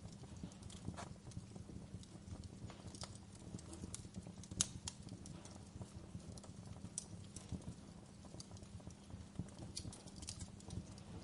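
Wood fire burning in a fireplace: a low steady rumble of flames with irregular sharp crackles and pops, one louder pop about halfway through.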